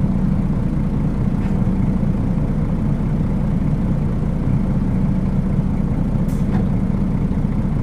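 Nissan Diesel UA city bus diesel engine running with a steady drone, heard from inside the passenger cabin. A short hiss comes about six seconds in.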